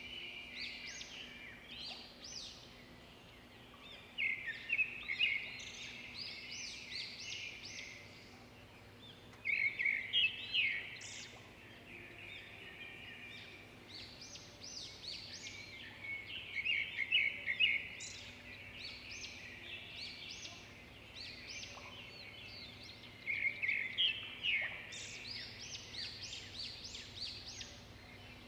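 Songbirds chirping in bursts of rapid, high notes that come back every few seconds, over a faint steady hum.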